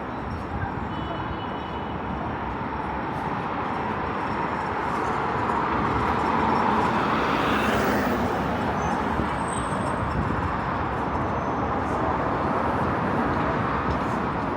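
Steady city road traffic noise, with a vehicle passing close and loudest about seven seconds in.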